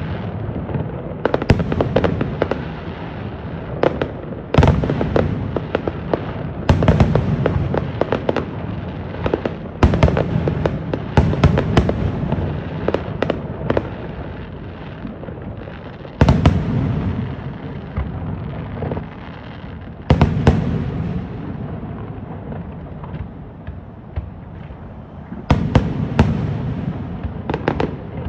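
Aerial fireworks bursting in rapid succession: sharp bangs and crackles with rolling echoes, coming in volleys every few seconds.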